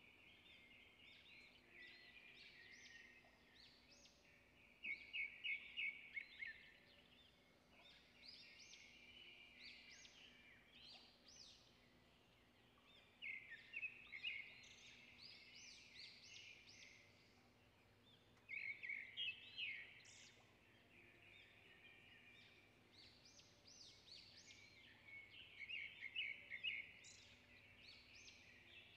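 Birds chirping and singing faintly, short high notes throughout, with louder bursts of rapid repeated notes four times, several seconds apart.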